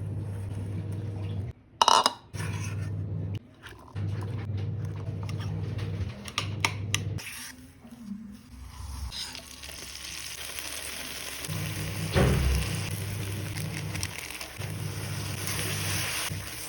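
Cooking in a pan: a utensil stirring and clinking, with a few sharp knocks in the first half, then an even sizzle from about halfway. A low hum stops and starts throughout.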